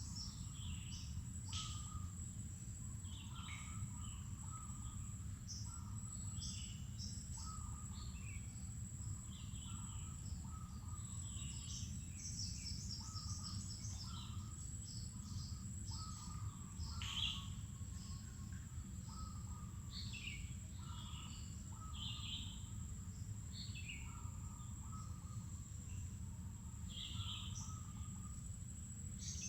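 Wild birds in a mangrove forest chirping and calling in many short, overlapping phrases. Beneath them run a steady high-pitched insect drone and a low, even rumble.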